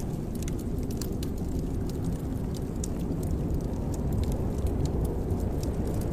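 Fireplace fire burning with a steady low rumble and frequent small, irregular crackles and pops from the burning wood.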